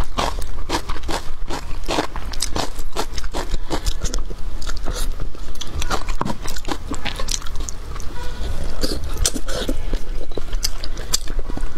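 Close-miked eating of braised pig's trotter: a dense, irregular run of chewing, biting and small mouth smacks and clicks.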